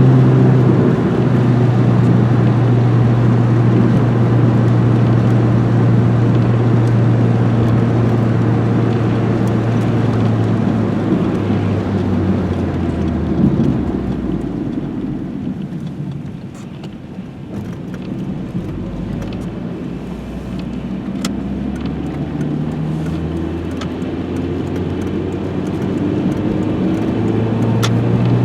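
Renault 21 GTS's 1.7-litre carburetted four-cylinder engine running while the car is driven, with road noise. The engine note holds steady at first, drops about eleven seconds in and stays lower and quieter through the middle, then rises again near the end.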